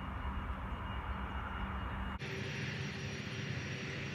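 Jet airliner engines heard at a distance at an airport: a steady noise with a faint high whine. The sound changes abruptly about two seconds in.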